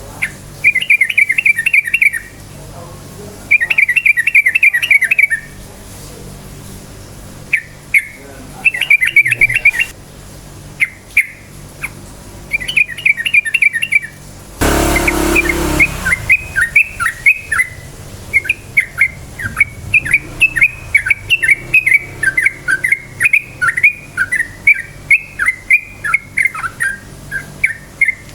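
Yellow-vented bulbul singing: several short bursts of fast chattering notes, then a long unbroken run of quick down-slurred chirps. About halfway through there is a brief loud rushing noise.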